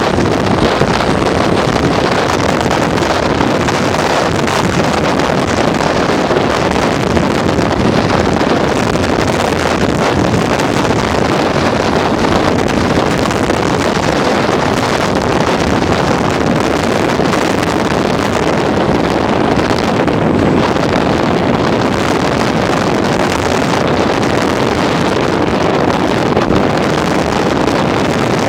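Heavy wind buffeting the camera microphone: a loud, steady rush and rumble that drowns out everything else.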